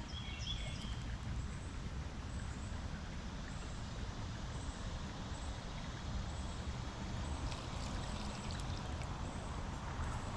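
Creek water running with a steady rush. A northern cardinal calls faintly, with a few short high notes in the first second, and a faint high note repeats about once a second.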